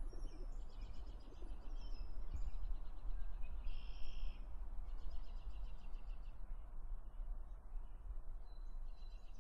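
Small birds chirping and twittering in quick repeated notes over steady background noise, with one louder chirp about four seconds in.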